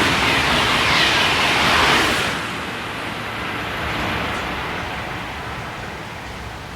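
High-speed train passing through at speed, a loud rushing of wind and wheels on rail that drops off about two seconds in and then fades away as it recedes.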